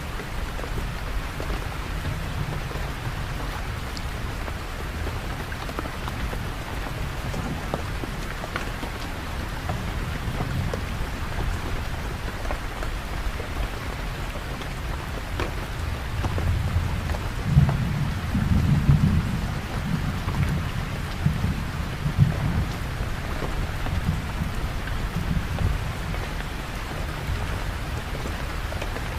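Steady heavy rain falling, with a low rumble of thunder that swells a little past the middle and fades again near the end.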